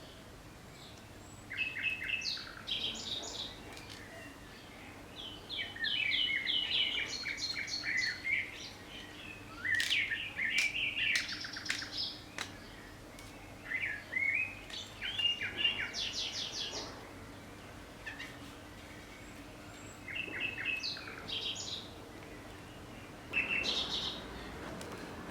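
Songbird singing short phrases of rapid, trilled high notes, repeated several times with pauses of a second or more between them. A faint steady hum runs underneath.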